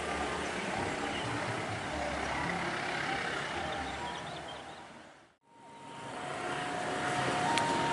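Steady rumble of road traffic near a railway station, fading out to silence about five seconds in and fading back in. After that comes a steady high tone that steps up to a higher pitch near the end.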